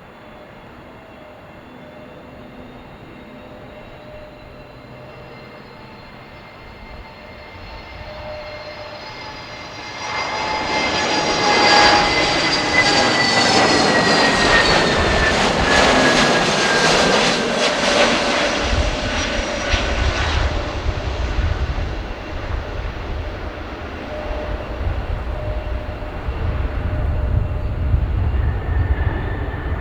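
Airbus A321neo's CFM LEAP-1A jet engines on landing approach, swelling as the airliner passes close by, with a whine that falls slowly in pitch while it is loudest. After that the whine fades and a deep rumble carries on to the end.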